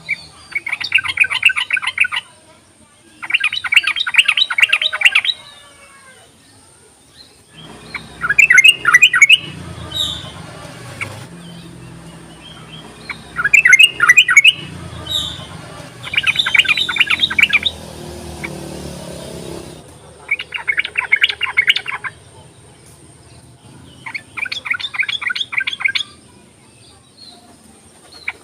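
Yellow-vented bulbul (trucuk) chattering in fast runs of repeated notes. Each run lasts one to two seconds, and about seven runs come a few seconds apart. A low background rumble comes in under the middle runs.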